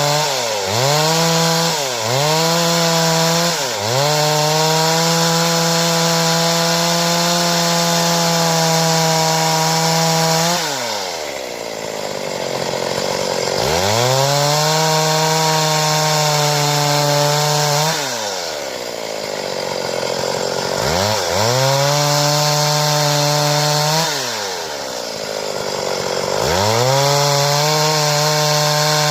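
Stihl two-stroke chainsaw revving and cutting through wood. There are a few quick throttle blips at the start, then four long full-throttle stretches of several seconds each, dropping back to idle between cuts.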